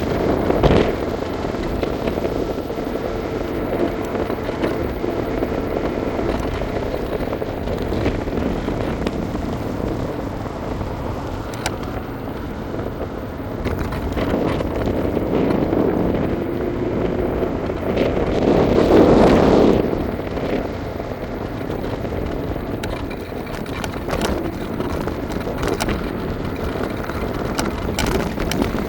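Wind buffeting the microphone and the rolling rumble of an electric scooter on pavement, with scattered small clicks and rattles. The noise swells louder for about two seconds roughly two-thirds of the way through.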